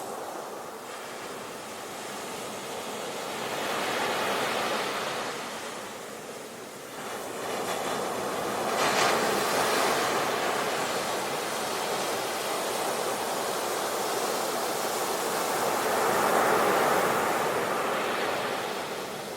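Sea waves breaking and washing on a shore, the surf swelling about three times: around 4 s in, again near 9 s and near 17 s.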